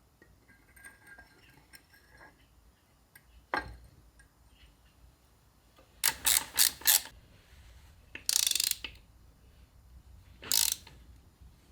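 Socket ratchet wrench clicking in short bursts as bolts are worked: a single click, then quick runs of ratchet clicks and a longer rattle of the pawl.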